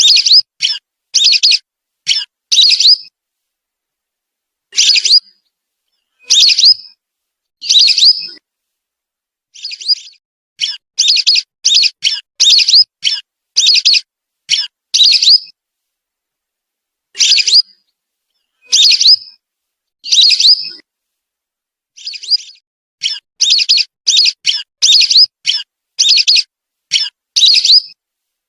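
Whistling-duck (belibis) calls used as a lure: short, high whistled notes given in quick runs of three to eight, with brief pauses between the runs.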